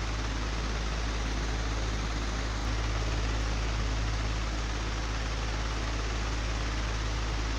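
Old, broken electric fan running steadily: a whoosh of moving air over a strong low motor hum, which steps up slightly about two and a half seconds in.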